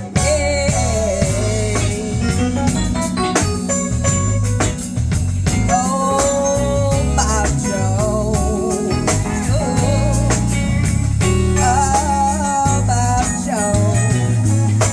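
A band playing an instrumental break: drum kit and bass under a lead melody line with bending, wavering notes.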